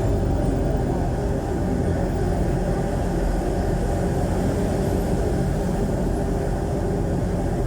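Isuzu 4BC1 four-cylinder diesel engine of a jeepney running steadily through a very loud aftermarket muffler, heard on board.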